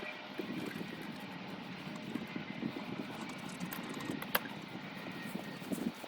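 Faint, steady engine drone with no clear rhythm, and a single sharp click about four and a half seconds in.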